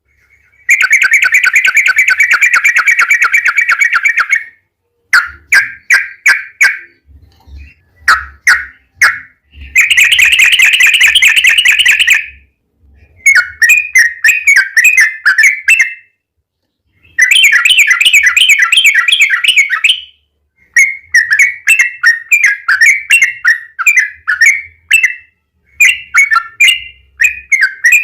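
Yellow-vented bulbul (trucukan) singing loudly: long, fast rolling trills of two to four seconds, three times, alternating with runs of short bubbly chirping notes.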